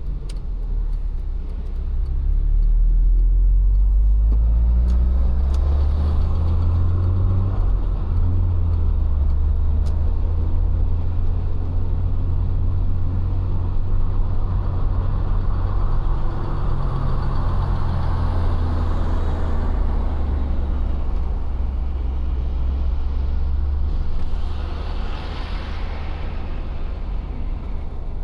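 1995 Citroën XM driving: a steady low engine and road rumble, with the engine note climbing as the car picks up speed about two seconds in.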